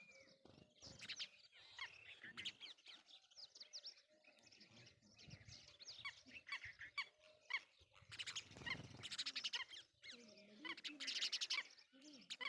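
Red-wattled lapwings and other birds calling in a busy run of quick, shrill chirps and notes, with a brief rush of noise about eight seconds in.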